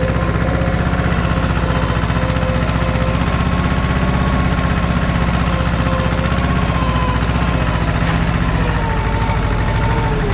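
Allis-Chalmers 5020 compact tractor's diesel engine running steadily, with a steady whine over the engine note.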